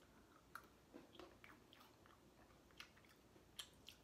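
Faint crunching and chewing of green tea Pocky biscuit sticks, with several small crisp snaps scattered through otherwise quiet room tone.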